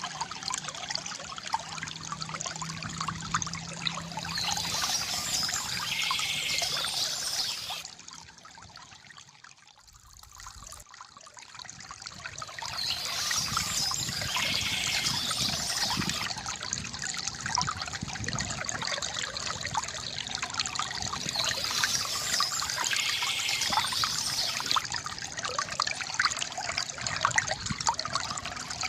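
Water trickling and gurgling from a bamboo fountain. About eight seconds in, the flow drops away and goes much quieter for about four seconds, then builds back up.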